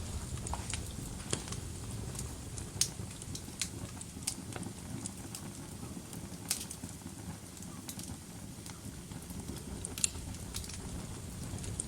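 Wood fire crackling in a fireplace: irregular sharp pops and snaps every second or so over a low steady rumble of burning, with one louder pop about halfway through.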